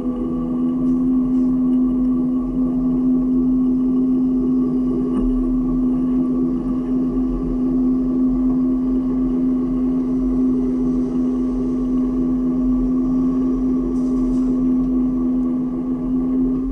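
A vehicle engine running at a constant speed, with a strong steady whine over the engine noise and no change in pitch.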